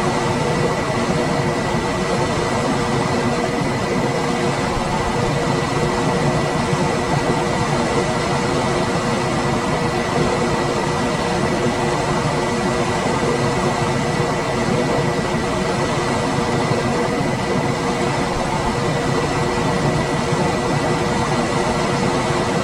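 Room air conditioner running steadily: an even rush of fan air with a faint steady hum and a thin high whine held in it.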